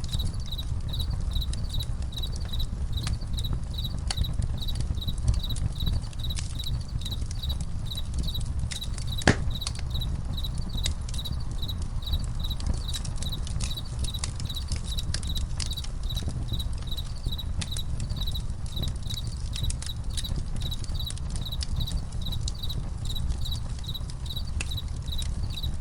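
Campfire crackling, with scattered sharp pops and one louder crack about nine seconds in, over a low steady rumble. Crickets chirp in an even rhythm throughout.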